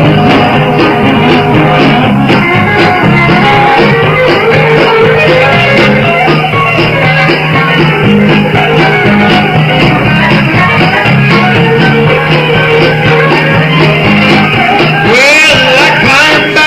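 A country band playing an up-tempo, rock-and-roll-flavoured song with guitar, loud and continuous, with a few bent, gliding notes near the end.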